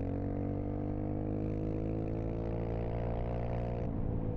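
Dirt bike engine running under way, its pitch climbing slowly, then dropping suddenly near the end as the revs fall off.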